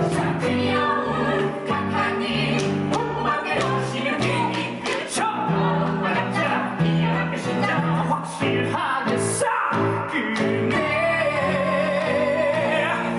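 Live musical-theatre song: singing over instrumental accompaniment with a steadily moving bass line, ending on a long held note with vibrato.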